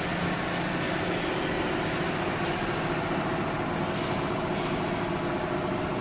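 Hydraulic power unit of an Enerpat VB 30S vertical cardboard baler running: an electric motor and pump giving a steady hum over a broad mechanical noise.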